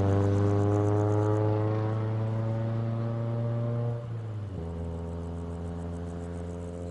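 Car engine running at steady revs, its drone creeping up slightly in pitch, then dropping to lower, quieter revs about four seconds in.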